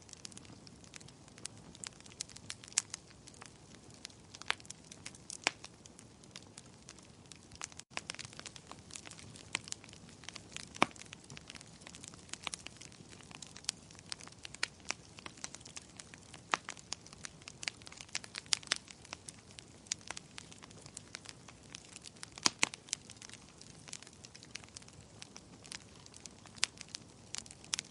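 Fireplace fire crackling, with irregular sharp pops and snaps over a soft, steady hiss.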